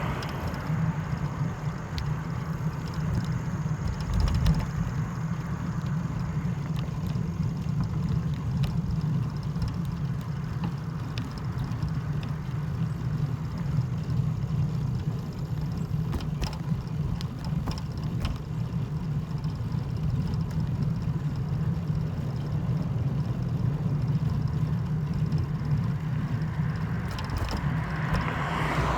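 A vehicle running: a steady low rumble with a few faint clicks.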